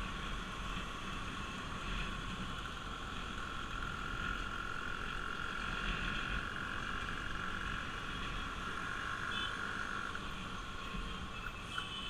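Bajaj Pulsar RS200's single-cylinder engine running steadily on the move, with a steady mid-pitched whine that fades out about ten seconds in, and a run of quick, evenly spaced ticks near the end.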